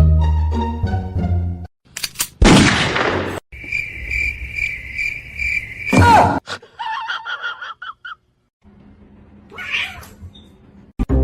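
Plucked-string music that cuts off, followed by a string of short separate sounds: a loud noisy burst, a steady high pulsing tone, then a cat meowing.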